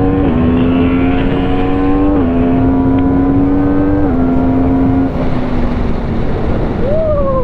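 Motorcycle engine accelerating through the gears: the pitch climbs gently, then drops at three upshifts about two seconds apart. Past the middle the throttle closes, the engine note fades, and road and wind noise take over.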